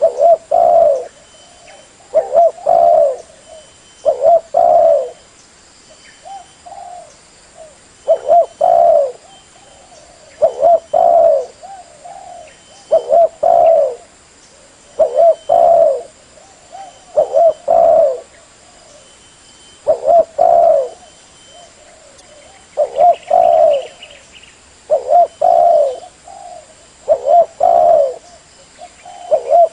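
Spotted dove (tekukur) cooing: its call phrase of a few low coos, about a second long, repeated evenly about every two seconds.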